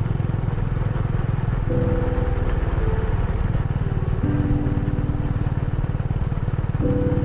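Honda Rebel 250's single-cylinder four-stroke engine running steadily under way.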